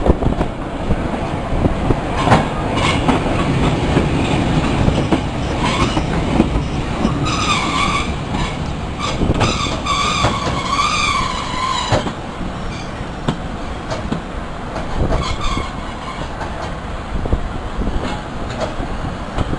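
Heritage diesel-hauled passenger train rolling into a station, wheels rumbling and clicking over the rail joints. From about seven seconds in, a wavering metallic squeal from the wheels as the train slows, stopping abruptly about twelve seconds in, after which the running noise eases.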